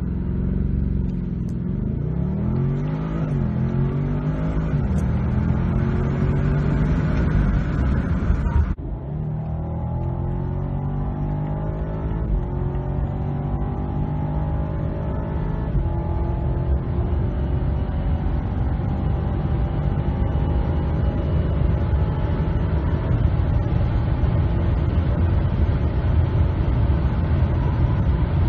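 BMW M235i's turbocharged 2.0-litre four-cylinder petrol engine under full-throttle acceleration from a launch-control start, heard from inside the cabin. Its pitch climbs through each gear and dips at each upshift. About nine seconds in, the sound cuts abruptly to a long, slow climb in a high gear at high speed.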